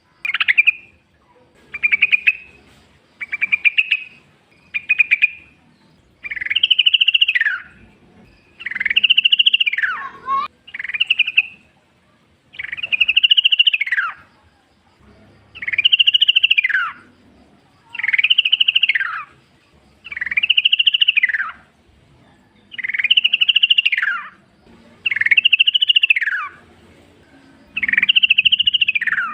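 Yellow-vented bulbul (trucukan) singing: a steady series of whistled phrases about one every two seconds, short at first, then from about six seconds in longer phrases that each rise and fall in pitch.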